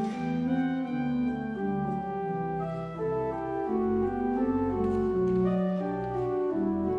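Organ playing sustained chords that move from note to note over a low bass line.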